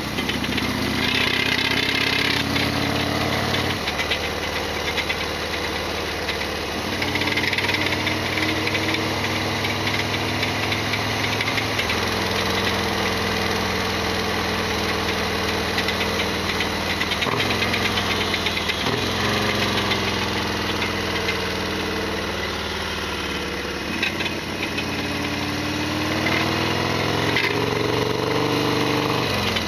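Harley-Davidson Sportster XL1200R's air-cooled 1200 cc V-twin running under way, its revs climbing in stretches and dropping sharply several times, as in gear changes. Over the engine runs a loud clattering rattle, the abnormal noise that the owner says this bike always makes.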